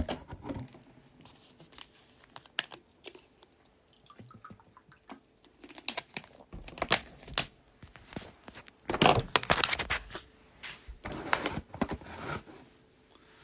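Scattered clicks, taps and rustles close to the microphone, with a few longer, louder rustles about nine and eleven seconds in.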